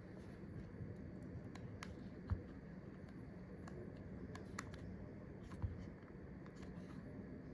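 Faint, scattered small clicks and light taps of tools and parts being handled while the iPhone XR's flex-cable connectors are pressed back onto its logic board, with two soft thumps, one about two seconds in and one past the middle.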